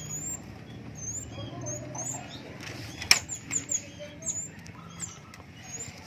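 Caged young small minivets calling with short, thin, high chirps again and again, with wings fluttering in the cage. There is a sharp tap about three seconds in.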